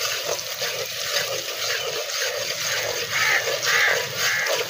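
Chopped onions and ginger-garlic sizzling and crackling steadily in hot oil in an aluminium pot, stirred with a metal slotted spatula, with a few louder scrapes near the end.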